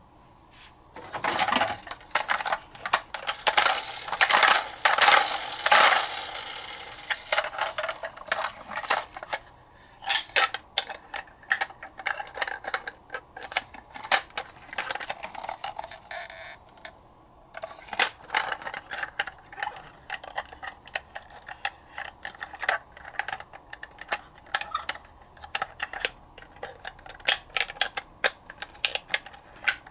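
Hands handling a toy garbage truck and a cardboard box: a run of small hard clicks, taps and scrapes. Louder scraping and rustling comes in the first few seconds, and there is a brief lull about halfway through.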